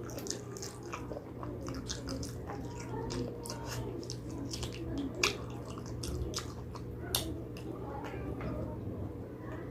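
Close-up wet chewing and lip-smacking of someone eating gelatinous pig trotters, with many short sticky clicks, two of them louder about five and seven seconds in, over a steady low hum.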